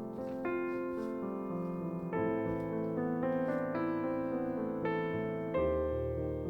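Background piano music: slow, sustained chords that change about once a second.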